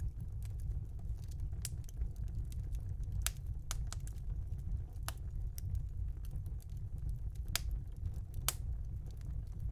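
Wood fire burning in a house fireplace: irregular sharp crackles and pops over a steady low rumble of the flames.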